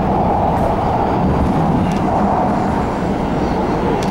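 MTR C-Train electric multiple unit running at speed between stations, a steady rumbling running noise heard from inside the car.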